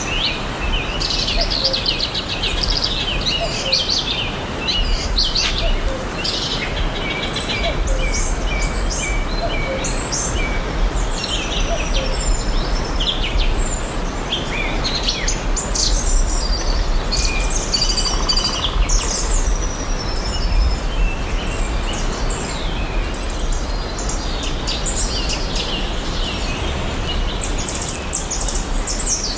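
Several songbirds chirping and trilling in a dense, overlapping chorus, over a steady hiss and a low rumble of outdoor background noise.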